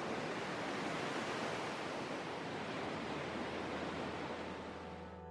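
Waterfall rushing: a steady wash of falling water that eases a little near the end.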